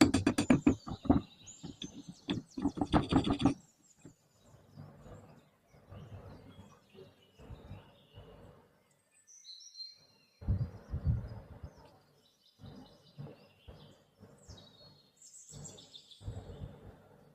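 Birds chirping now and then over scattered workshop handling noises, after a stretch of rhythmic music that stops about three and a half seconds in.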